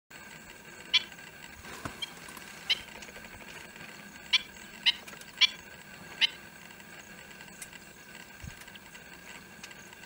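A bird giving six short, sharp calls, loose and irregular over the first six seconds, then falling silent; a faint steady hum runs underneath.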